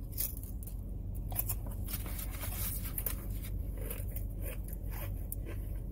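Close-up chewing of a chicken salad-topped cracker, with small crunches, plus scattered clicks and crackles of a black plastic takeout container being handled. A steady low hum runs underneath.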